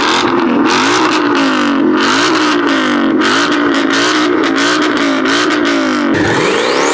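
A car engine revved over and over, its pitch rising and falling about twice a second, then dropping off near the end and climbing again in a steep rising whine.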